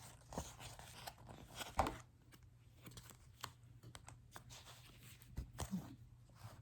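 Faint rustling with scattered small clicks and knocks, the sound of things being handled; the loudest knocks come just before two seconds and just before six seconds.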